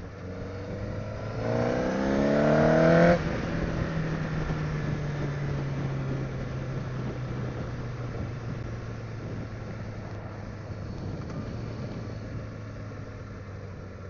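Honda CBR1000RR's inline-four engine revving hard under acceleration for about a second and a half, then the throttle shuts abruptly and the engine note falls slowly as the bike rolls on.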